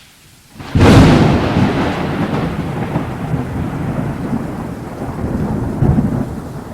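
A sudden loud boom about a second in, then a long rolling rumble over a steady hiss: thunder-like, with rain.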